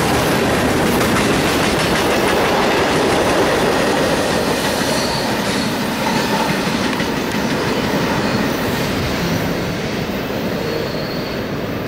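Union Pacific freight train's tank cars rolling past on the rails: a steady noise of steel wheels on track that eases slightly near the end as the last cars move away, with a couple of brief high wheel squeals.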